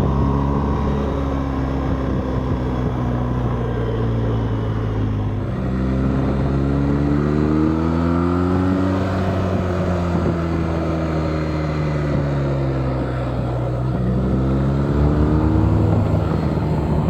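BMW R 1250 GS Adventure's boxer-twin engine running while under way. Its pitch rises from about five seconds in, falls back over the next several seconds, and rises again near the end.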